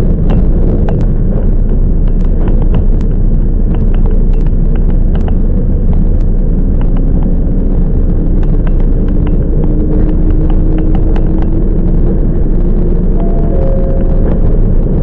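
Toyama Chiho Railway 10030-series electric train running along the line, heard from inside the car: a steady low rumble of wheels on rail with many short clicks and rattles. A faint tone slowly rises in pitch through the middle.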